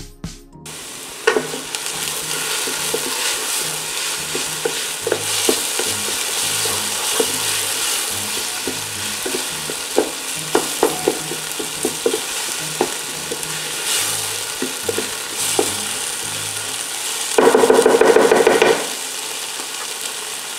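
Diced peppers, onion, garlic and ginger sizzling in hot oil in a multi-cooker's nonstick pot. A wooden spatula stirs them, knocking and scraping against the pan in scattered clicks. About 17 seconds in comes a louder stretch of noise lasting about a second.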